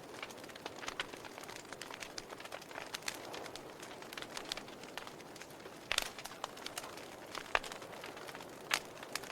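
Wood fire burning in a fireplace: a soft steady hiss broken by irregular sharp crackles and pops of burning logs, the loudest pops about six, seven and a half and nine seconds in.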